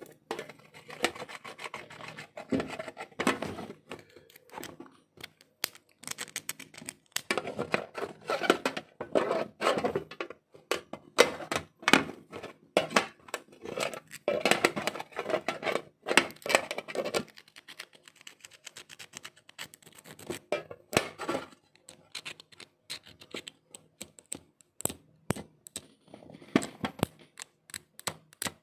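Clicks, scratches and scrapes of hands and tools working on a laptop's plastic casing and parts during a battery replacement, with many short sharp clicks and stretches of scratching.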